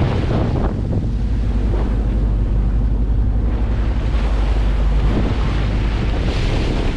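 Wind buffeting the microphone on a boat at sea, with waves washing around it; a heavy low rumble, with the wind and wash swelling about six and a half seconds in.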